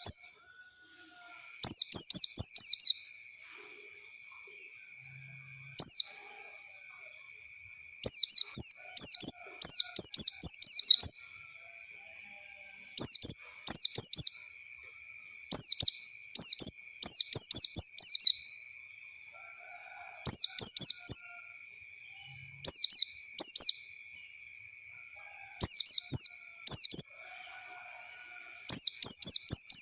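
White-eye (pleci) song: rapid high twittering phrases of a second or two, repeated about every two to three seconds with short pauses between. Underneath runs a faint steady high-pitched whine. The song is a lure recording for teaching young white-eyes to sing.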